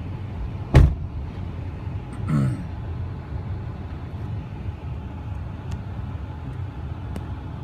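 Truck engine idling with a steady low rumble. About a second in comes a single loud thunk, the hood release popping the hood latch.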